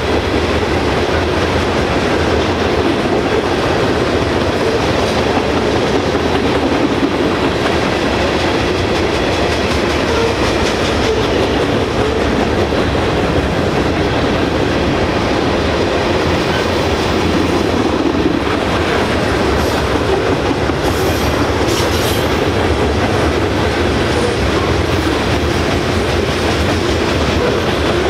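Freight train cars (covered hoppers and tank cars) rolling past at speed, their steel wheels on the rails making a steady, unbroken rumble. A few faint high squeals come in about twenty seconds in.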